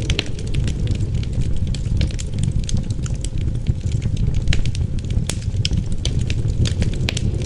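Wood fire crackling with frequent sharp, irregular pops, over a steady low rumble of wind.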